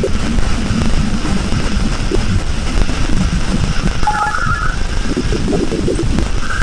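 Space-probe recording turned into sound: a dense, crackling low rumble with faint steady high tones above it, and a short wavering tone about four seconds in.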